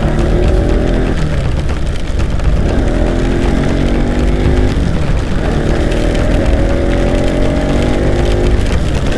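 Bajaj Pulsar NS200 single-cylinder engine accelerating through the gears: its pitch climbs in three stretches, each cut short by a brief dip at a shift. A steady low rush of wind noise runs underneath.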